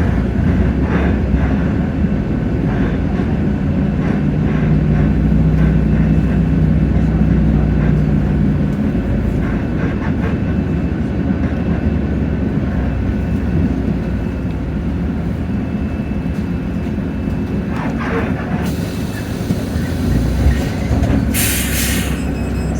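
Hino J08E-VN diesel engine of a Hino RK8JRVA-KJF city bus running, heard from inside the bus, with a low engine drone whose note drops away about nine seconds in. Near the end a hiss of air starts, with a louder burst of air a few seconds before the end.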